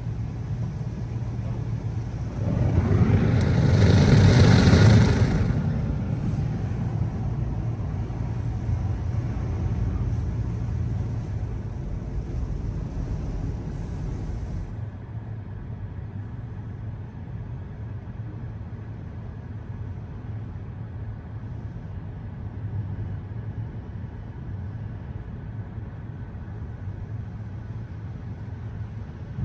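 Mark VII ChoiceWash XT rollover car wash running its soft-touch cycle: a steady machine hum under a rushing wash noise. A louder rushing swell comes about three seconds in, and the sound turns quieter and duller about halfway through.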